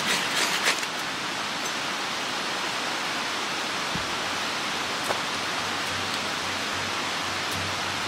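Steady rushing of a mountain stream, with a few light clicks in the first second.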